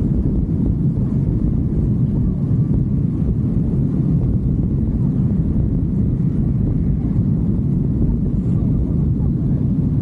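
Steady low rumble of a motorcycle under way, with wind buffeting the microphone, holding even throughout.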